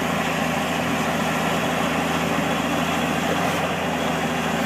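Engine of a heavy vehicle running steadily: an even drone that holds the same pitch throughout.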